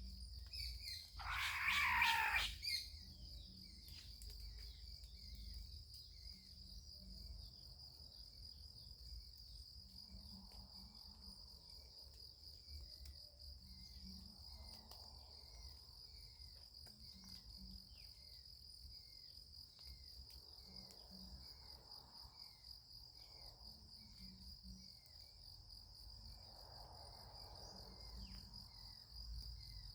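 Steady high insect trilling, with a short bird chirp repeating about once a second. One louder call, falling in pitch, comes about two seconds in.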